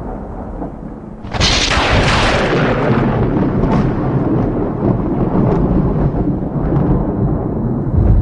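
Thunder: a low rumble, then a sharp crack about a second in that rolls on into a long, heavy rumble.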